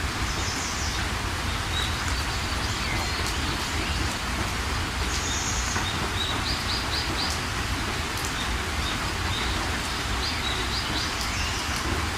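Steady rain with birds chirping over it: short high trills and quick runs of notes, including a run of four about six and a half seconds in and another cluster near the end.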